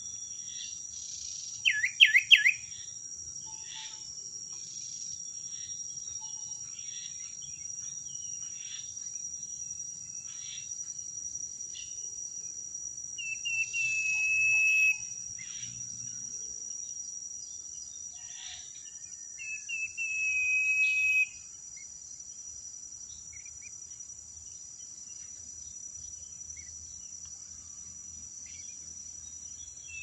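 Common ioras calling over a steady high-pitched insect drone: scattered short chirps, a brief loud burst of quick notes about two seconds in, and two long drawn-out whistles, each about a second and a half, getting louder and then cutting off sharply, one midway and one about two-thirds through.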